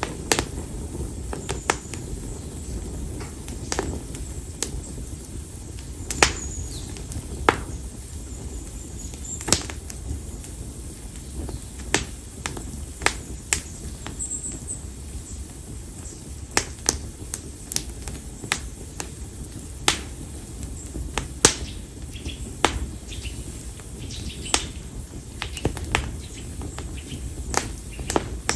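Split konara oak firewood burning in an open fire, crackling with frequent irregular sharp pops over a low steady rumble of flame.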